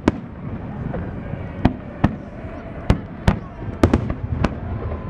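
Aerial fireworks bursting: a run of about eight sharp bangs at uneven spacing, two of them nearly together a little before the four-second mark, over a steady low rumble.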